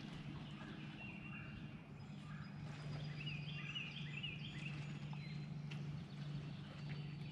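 Birds chirping and singing, with a rapid run of rising-and-falling notes about three seconds in, over a steady low hum.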